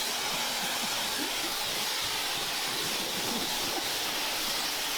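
A steady hissing rush of noise, even and unbroken.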